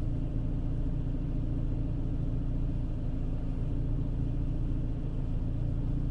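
Renault Clio III's 1.2-litre petrol engine, running on an aftermarket LPG conversion, idling steadily. The engine has a cylinder misfire, which the owner puts down to low-quality LPG.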